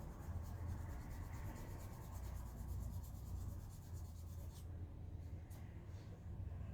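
A soft brush wet with isopropyl alcohol scrubbing over freshly soldered pads on a circuit board, in quick, even back-and-forth strokes that stop about four and a half seconds in, over a steady low hum.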